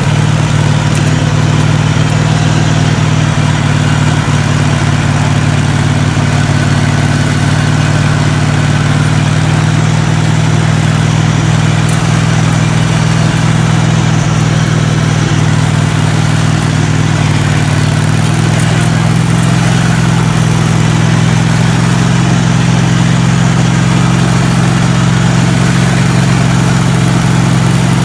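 Engine of a modified riding lawn mower running steadily and loud, close to the microphone, rising slightly in pitch about 18 seconds in.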